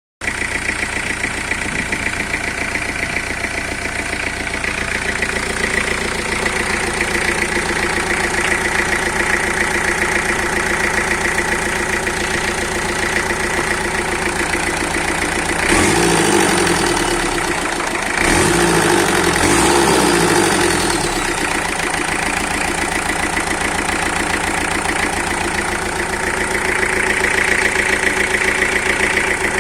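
Peugeot 2.5 TD turbodiesel engine running out of the car, idling steadily; about halfway through it is briefly revved twice, a second or two apart, then drops back to idle.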